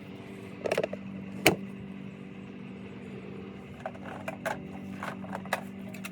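Several sharp clicks and clinks, one much louder about a second and a half in, from tools and pipe fittings being handled over a steady low mechanical hum.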